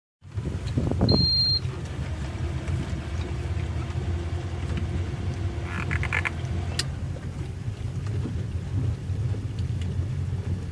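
Motorboat engine running steadily with a low rumble. A short high beep sounds about a second in.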